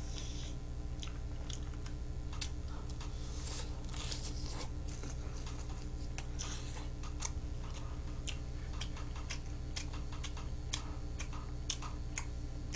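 A person chewing food close to the microphone, with wet mouth sounds and scattered short clicks of chopsticks against plastic food trays, over a steady low hum.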